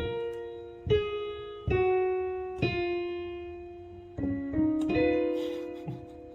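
Piano notes struck one at a time, about one a second, each ringing out and fading; a few notes overlap in the second half.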